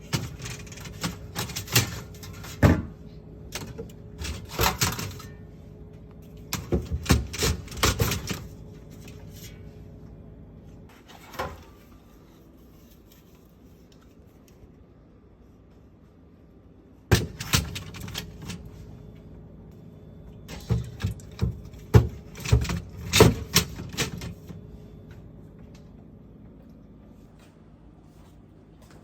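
Hands handling plastic fridge organiser bins and grocery packaging: bursts of clicks, taps and rustling, with a pause of a few seconds in the middle.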